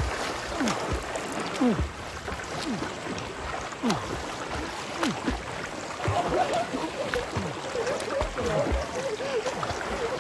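River water rushing steadily, with close gurgling and splashing.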